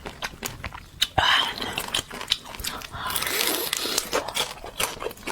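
Close-miked biting and chewing of air-fried basa fish fat, with many quick wet mouth clicks. There is a loud bite about a second in and a longer noisy chewing stretch past the middle.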